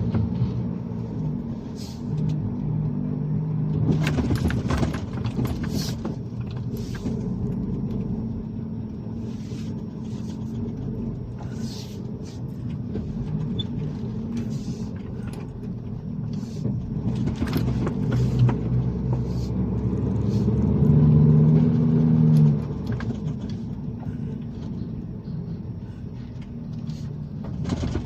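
Truck engine running with a steady low rumble and scattered rattles and knocks. The engine note grows louder and higher about twenty seconds in, then drops off suddenly.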